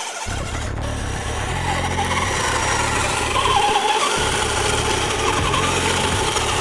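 Kyosho Blizzard SR radio-controlled tracked snow vehicle driving, its electric motor whining and wavering up and down in pitch over a steady hiss, with a low rumble that cuts out briefly a few times.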